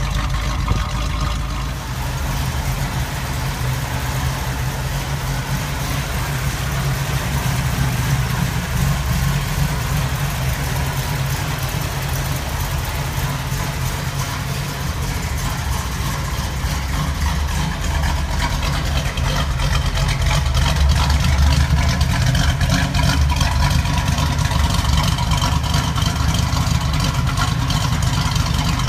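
The V8 engine of a 1974 Pontiac Firebird Formula 400 idling steadily, a little louder in the last third.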